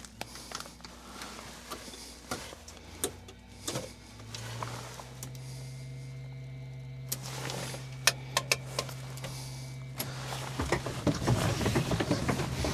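Switches clicking in a helicopter cockpit during the pre-start checklist. About four seconds in, an electrical hum rises in pitch and then holds steady. Near the end a louder, busier rushing noise builds, as the start begins.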